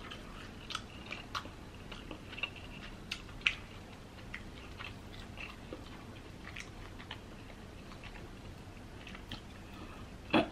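Chewing king crab meat: faint, irregular wet mouth clicks and smacks.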